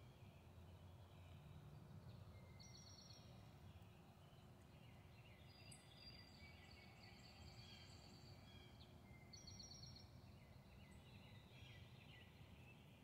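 Faint birdsong: a few short, quick-note trills and chirps from songbirds, coming and going over a low, steady outdoor background noise.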